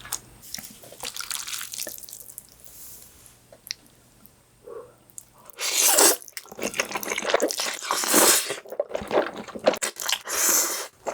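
Close-miked eating of tangsuyuk, Korean battered sweet and sour fried pork: faint clicks and mouth sounds at first, then loud crunching and chewing from about six seconds in.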